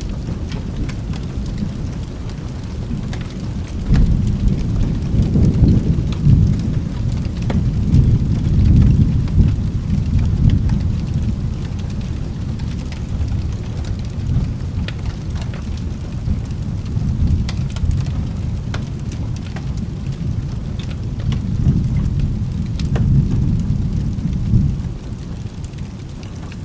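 Thunder rumbling over steady rain, the low rolling rumble swelling about four seconds in and again near the end. Light scattered ticks sound through it.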